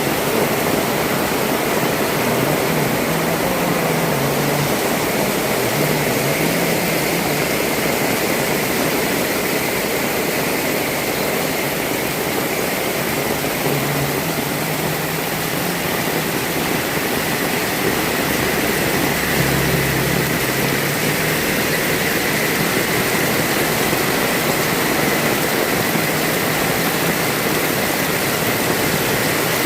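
Heavy rain falling steadily, a dense, even hiss. A few faint low rumbles come and go beneath it.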